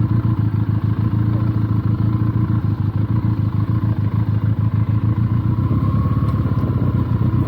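Benelli TNT 300's parallel-twin engine running steadily, a dense rapid pulsing with no revving, as the motorcycle is ridden.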